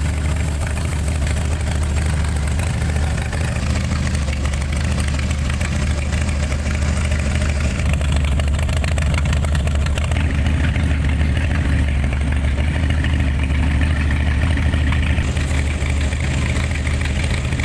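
An engine running steadily at idle, a low, even drone with no revving.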